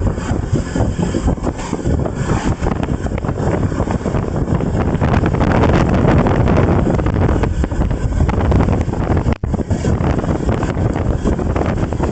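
Heavy wind buffeting the microphone during travel: a loud, rough rumble with no clear engine note, cut by a brief dropout about nine seconds in.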